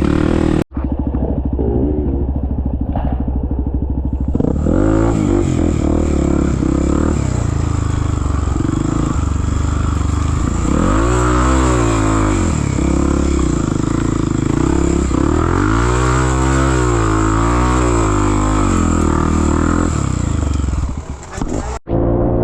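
Off-road trail motorcycle engine running under load, rising and falling in pitch as the throttle opens and closes, with two marked rev swells in the middle. The sound drops out for a moment right at the start and again near the end.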